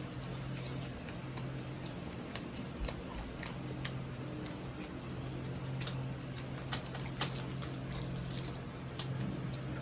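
Close-miked chewing and crunching of crispy deep-fried pork knuckle skin: irregular crisp clicks, sometimes several a second, over a steady low hum.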